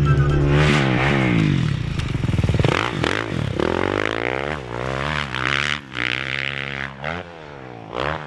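Dirt bike engine revving, its pitch climbing and falling repeatedly. It gets quieter after about seven seconds.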